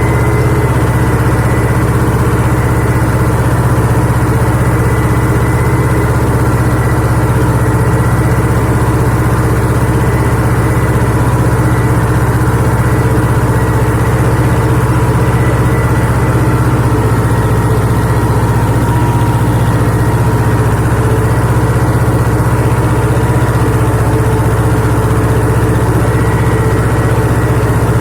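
Mahindra Yuvraj 255 DI tractor's diesel engine running steadily at a constant speed.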